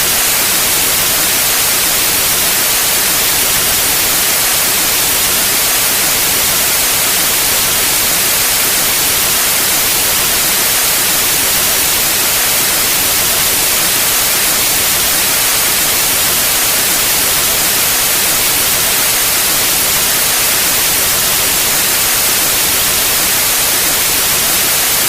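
Steady white noise: an even, unchanging hiss across the whole range, with no events in it.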